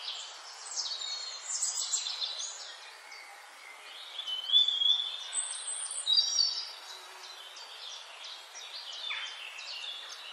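Several forest birds chirping and whistling in short overlapping phrases over a steady background hiss, with the loudest calls about four and a half and six seconds in.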